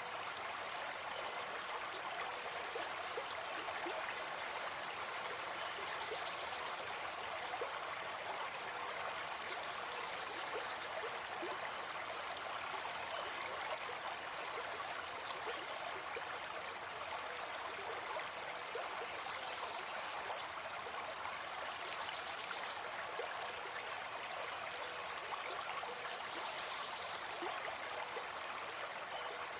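Gentle river stream, water flowing steadily over the streambed.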